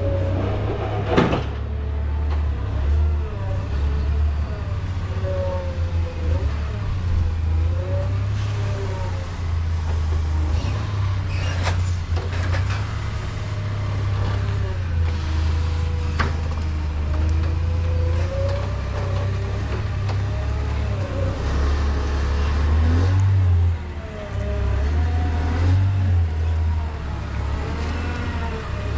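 Vehicle engine running with a steady low rumble, with a few sharp knocks, the loudest about a second in.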